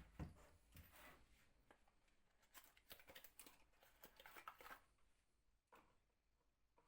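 Faint, irregular clicks and short scrapes of hand work. They come thickly for about the first five seconds, then thin out.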